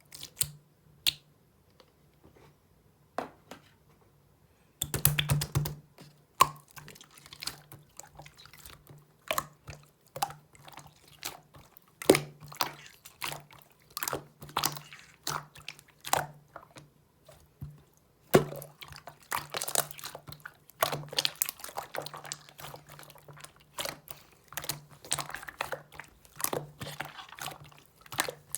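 Hands playing with slime: sticky clicks and wet pops as it is pressed, folded and stretched. A few scattered clicks at first, then a steady run of them from about five seconds in.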